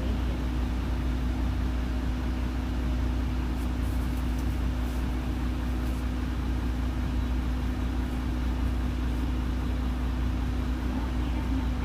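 Inside a route bus: the bus engine runs steadily, a low drone with a constant hum and no changes in pitch or level.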